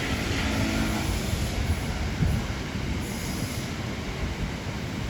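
Diesel locomotive-hauled train running: a steady low rumble with a faint engine hum in the first second.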